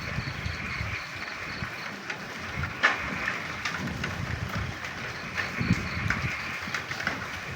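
Frogs croaking in the rain over a steady hiss of rainfall, with a few sharp drip taps and a high pulsed trill during the first two seconds.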